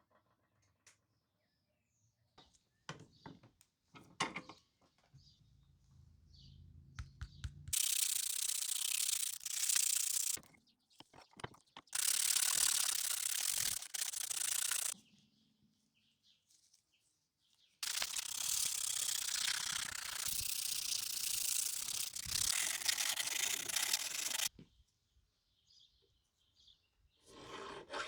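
Workshop tool work: a few light clicks and knocks, then three long bursts of even abrasive noise, like sanding or grinding on metal or wood, with short pauses between them.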